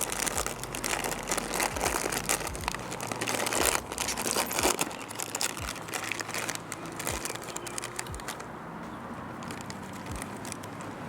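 Crinkling and rustling of a plastic snack bag of onion rings being handled and opened, dying down about eight seconds in.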